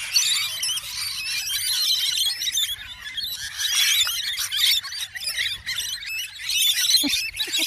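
A flock of small birds chirping and squeaking continuously, many high calls overlapping.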